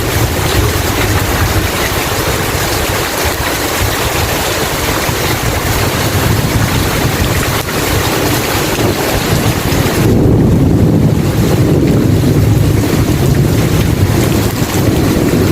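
Steady heavy rain with a low rolling rumble of thunder underneath, the rumble swelling about ten seconds in.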